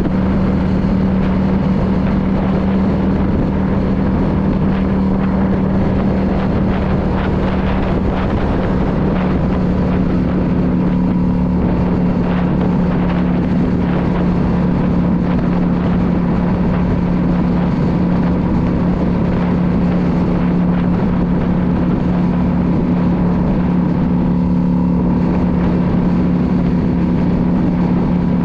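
2016 Yamaha V Star 650 cruiser's air-cooled V-twin engine running at a steady cruising speed, its pitch holding level, with wind noise over the microphone.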